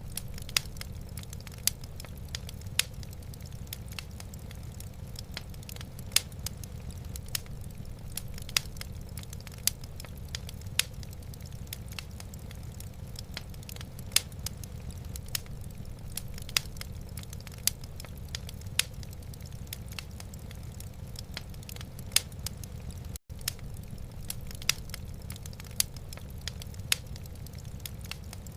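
Wood fire crackling and popping in a fireplace, with irregular sharp pops a few times a second over a steady low rumble. The sound drops out for an instant about 23 seconds in.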